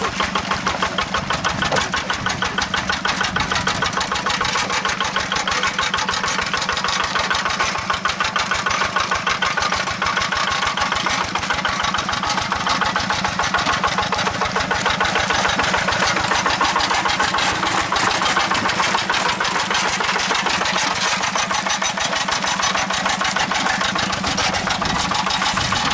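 Hand tractor engine running steadily, with a fast, even chugging that holds at one speed throughout.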